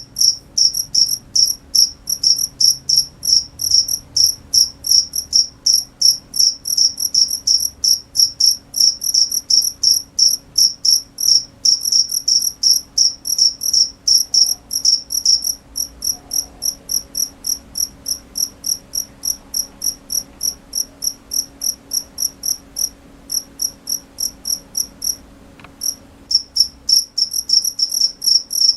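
A cricket chirping in a steady run of short, high-pitched chirps, about three or four a second, pausing briefly a few seconds before the end.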